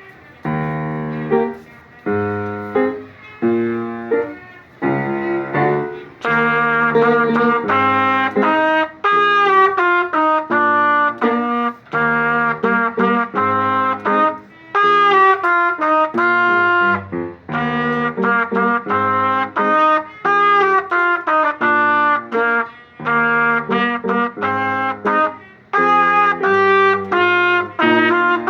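Concert band music: wind instruments play a quick melody of short, detached notes. The first few seconds are sparser, and the texture fills out about six seconds in.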